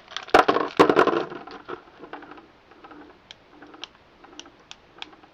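Plastic packaging crinkling as a Beyblade X parts packet is opened, then a run of light plastic clicks as the small parts are handled. The crinkling is loudest in the first second or so; the clicks come about every half second after that.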